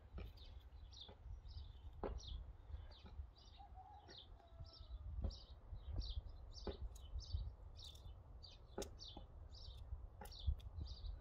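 A small bird singing a short high chirp over and over, about two a second, with sharp clicks of a knife cutting potato over a metal bowl.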